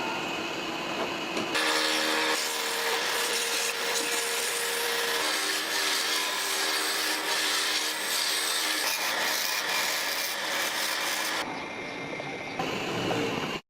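Wood being cut or shaped by a tool: a steady, dense scraping noise with a faint machine tone underneath, changing near the end.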